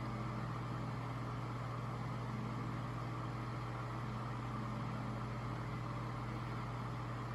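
Vintage Lasko Galaxy 16-inch table fan running steadily: a constant motor hum with a light whine over the rush of air from the blades.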